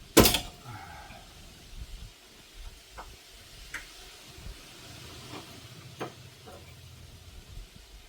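Tools and metal parts clanking while working on a car's front strut and brakes: one loud sharp clank just after the start that rings briefly, then a few lighter clicks and taps.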